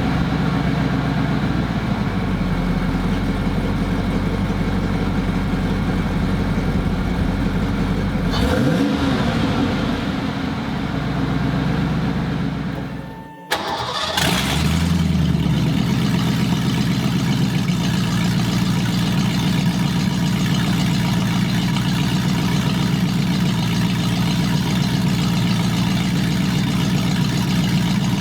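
Ford 302 (5.0 L) V8 of a 1989 Mustang LX running on open headers with no exhaust behind them, idling while still warming up after a cold start. About eight seconds in it gives one brief rev. Around thirteen seconds it sags and cuts out, then it starts again at once and settles back into a steady idle.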